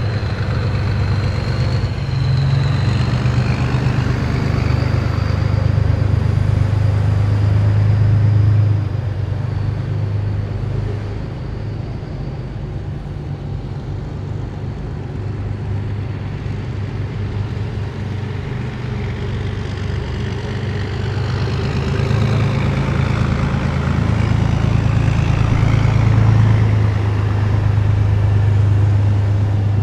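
Heavy military vehicles driving past in a column: a deep, steady engine drone that swells as each vehicle passes, loudest about eight seconds in and again near the end, with a thin high whine over it at the start.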